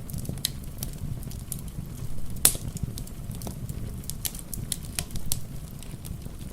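Wood fire crackling with irregular sharp pops, the loudest about two and a half seconds in, over a steady low rumble, with soft rain patter mixed in.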